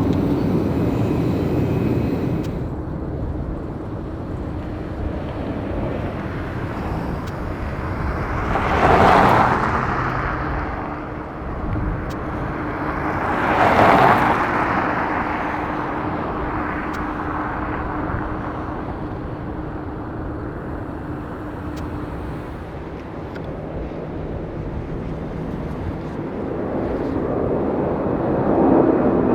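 Boeing 747-400F freighter's jet engines running at low power: a steady rumble with a faint steady tone, swelling louder twice for a second or two, about nine and fourteen seconds in.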